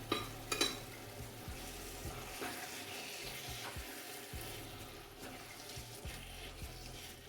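Tomato sauce with chicken and carrots sizzling in a pot, with a couple of sharp knocks in the first second.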